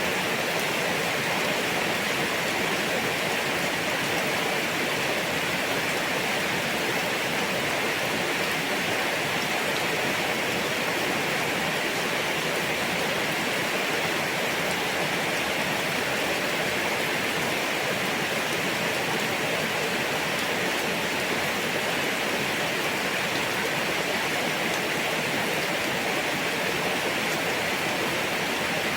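Rain falling steadily, an even hiss that holds the same level throughout with no separate drops or thunder standing out.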